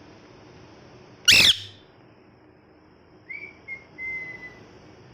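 Ringneck parrot giving one loud, harsh screech about a second in, then a short, soft whistled note that falls slightly in pitch.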